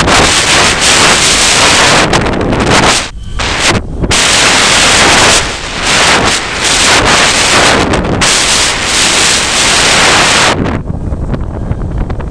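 Strong gusty wind buffeting the microphone: a loud, rough rushing noise that drops briefly about three seconds in and eases again near the end.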